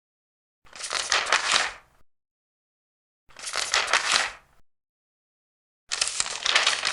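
Large paper pages being turned, three times, each turn a rustle of a little over a second with silence between.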